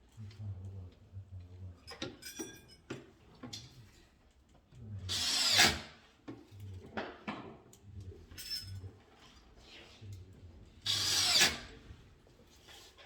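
Cordless drill-driver driving screws in two short runs, about five and eleven seconds in, each swelling and then cutting off as the screw seats. Small knocks and handling clicks come between the runs.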